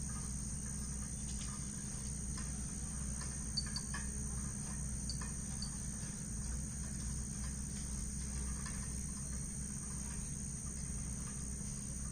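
Steady, high-pitched chorus of insects buzzing without a break, over a low steady rumble.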